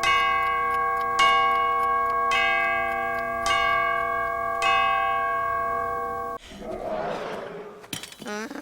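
A large bell, like a clock chiming, struck five times about a second apart, each stroke ringing on into the next. It cuts off abruptly about six seconds in, followed by a soft rushing noise and a short breathy gasp near the end.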